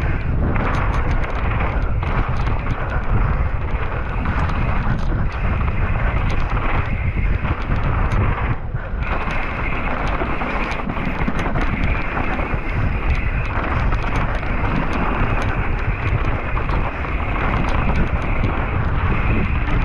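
Wind buffeting the microphone: a loud, steady rumbling rush with scattered clicks and knocks.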